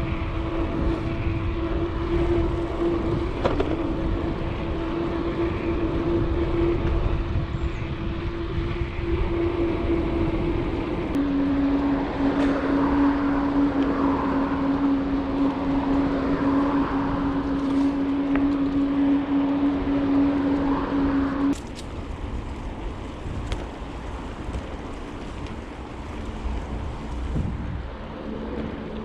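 Wind rushing over the microphone of a bicycle-mounted action camera while cycling at speed, with a steady whistling hum that drops a little in pitch about eleven seconds in. About twenty-one seconds in the hum stops suddenly and the rushing becomes quieter.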